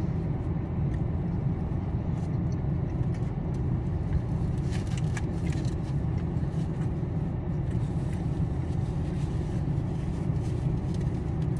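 Car engine idling, a steady low rumble heard from inside the parked car's cabin, with a few faint clicks about five seconds in.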